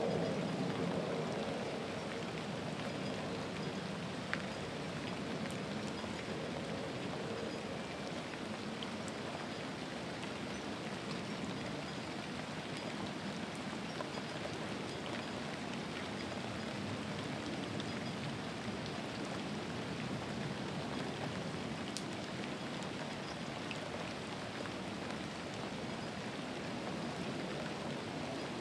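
Steady rain falling, with an occasional sharper drop tick standing out.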